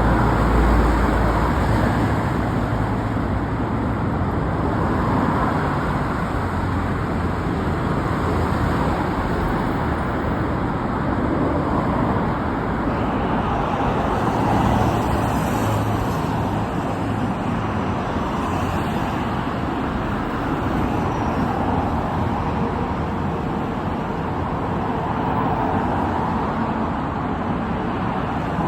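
Steady road traffic noise, an even wash of passing cars without any single event standing out.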